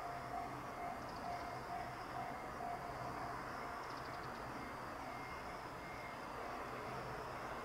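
Tokyo Metro Hibiya Line 13000-series electric train running slowly, a faint steady rumble.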